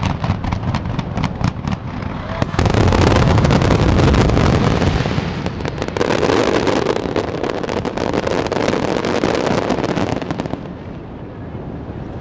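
Fireworks display: a rapid barrage of shell bursts and crackling, with a heavier burst about two and a half seconds in. The barrage thins out near the end.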